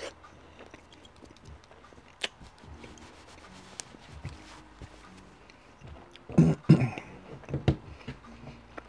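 Close-miked eating sounds: soft chewing of bread with small mouth clicks, and a cluster of louder wet mouth sounds about six to seven and a half seconds in.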